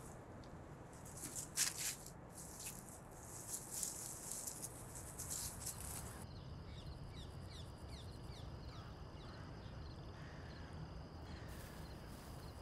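Faint outdoor ambience. Scattered rustling clicks give way, about six seconds in, to a bird's run of short, quick chirps, about three or four a second.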